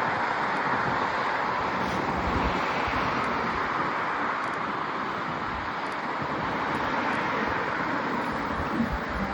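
Wind rushing over the microphone on a moving bicycle: a steady hiss with low, uneven buffeting underneath.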